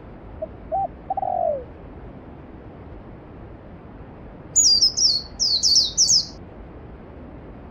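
Valley stream running steadily, with a short low bird call about a second in and a quick run of five high, falling chirps from a songbird about five seconds in.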